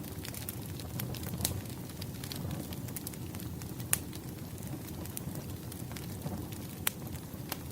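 Wood fire burning steadily, with a low rustling hiss and scattered sharp pops and crackles from the burning logs, the loudest about four and seven seconds in.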